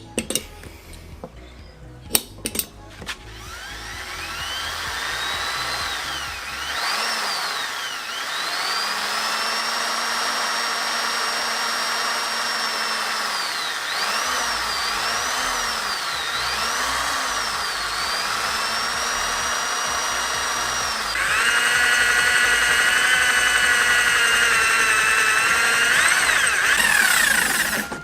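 Electric drill boring a hole in metal: after a few clicks the motor's whine rises as it spins up, dips and recovers several times as the trigger is eased, then turns louder and harsher about three-quarters of the way through as the bit cuts.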